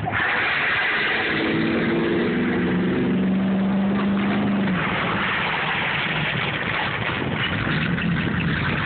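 Truck engine revving hard under a steady rush of noise. Its pitch climbs slightly for a few seconds, then drops out about five seconds in, leaving the rushing noise.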